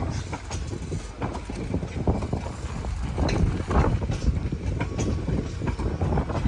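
Express train coaches rolling on the rails: a steady low rumble with irregular clattering knocks of the wheels over rail joints.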